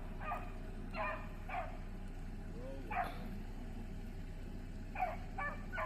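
Beagles giving short, separate barks, about six of them spaced a second or so apart. The owner takes the barking as a sign that a rabbit might be up.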